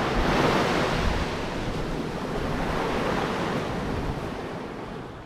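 Ocean surf washing onto the beach, a steady rushing noise with some wind on the microphone, fading out gradually over the last few seconds.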